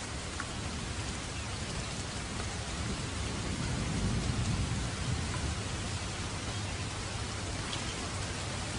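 Steady rain falling as an even hiss, with a low rumble of thunder that swells and fades about four seconds in.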